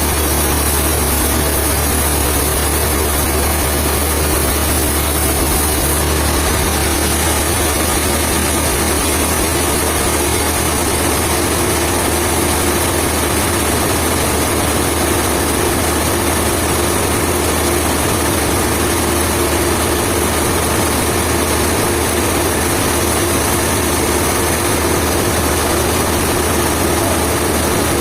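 Sawmill machinery running steadily: a constant engine drone with a low hum, and a steadier mid-pitched tone that comes up about ten seconds in.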